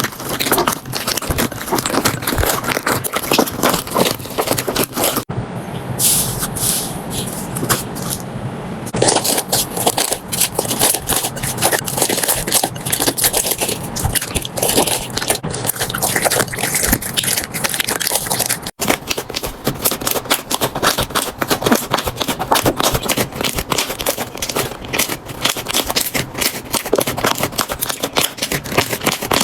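Slime being squeezed, poked and pressed by hand, a dense run of sticky crackles and small pops. The sound changes abruptly twice, about 5 and 19 seconds in, as one clip cuts to the next.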